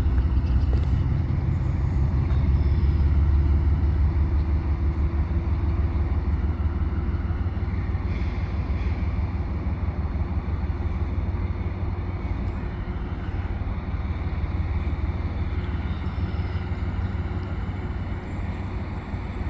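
Diesel locomotive engine chugging under power: a deep, steady rumble that slowly fades as it moves away.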